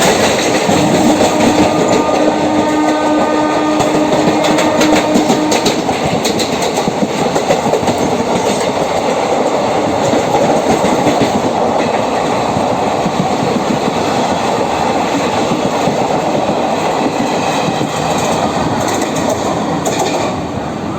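Passenger train running on the rails: a steady rumble with the clickety-clack of wheels over rail joints. A steady tone sounds for roughly the first five seconds.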